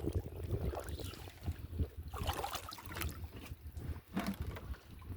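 Water sloshing and splashing in irregular small bursts, with wind rumbling on the microphone.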